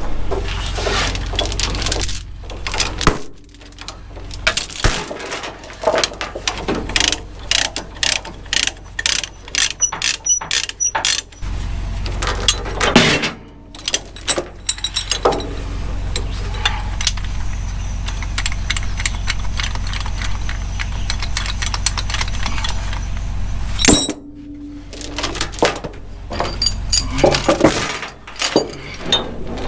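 Metal chains clinking and clanking in quick irregular runs, typical of load-securement chains and binders being unhooked from equipment on a lowboy trailer. A diesel truck idles steadily underneath.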